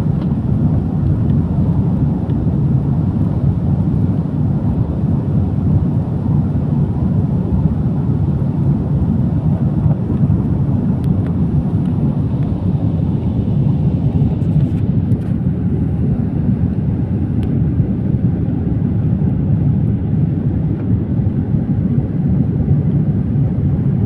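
Steady low rumble of a jet airliner heard from inside the cabin, its engines and airflow running evenly with no change in pitch.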